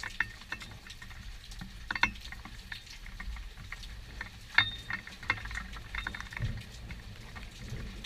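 Rain during a thunderstorm: scattered drops tapping sharply and irregularly close to the microphone, over a steady low rumble.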